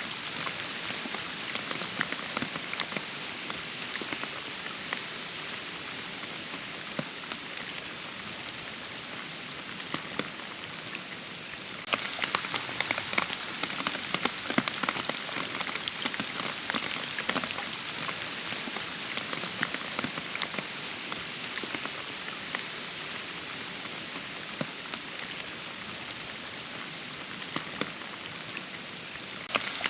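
Steady rain falling, with many separate drops heard through the hiss. It turns louder and denser about twelve seconds in.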